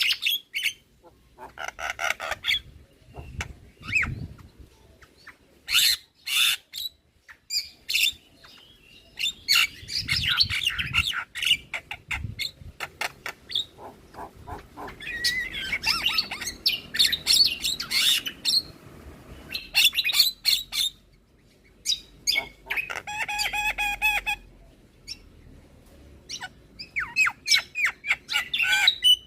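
Javan myna singing in irregular bursts of harsh squawks, chirps and whistled notes, with short pauses between phrases and one buzzy, drawn-out note about two-thirds of the way through.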